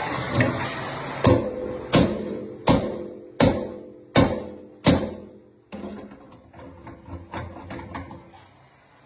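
Hammer blows on steel: six heavy, ringing strikes about three-quarters of a second apart, then a run of lighter, quicker taps. Metal being beaten over to straighten it.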